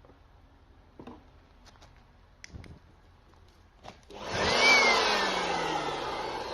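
A handheld electric blower switched on about four seconds in. Its motor whine rises quickly over a rush of air, then falls slowly as it winds down. A few light clicks and handling knocks come before it.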